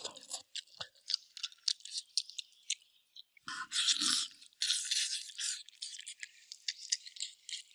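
Close-up mouth sounds of eating braised pig's trotter: rapid wet clicks, smacks and crackles of chewing and gnawing the sticky, gelatinous skin, with a brief low hum of a voice about halfway.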